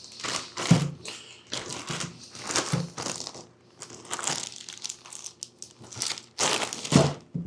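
Vegetables being handled and prepared: a series of irregular short crunching, crinkling strokes, the loudest near the end.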